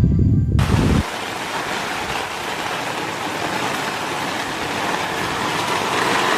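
Background music cuts off about a second in, giving way to the steady, even hiss of rain falling.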